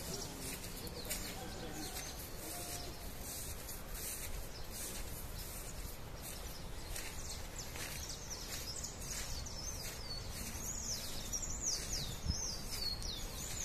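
Birds giving a run of high, quickly repeated sweeping chirps from about halfway through, over a steady outdoor background hiss.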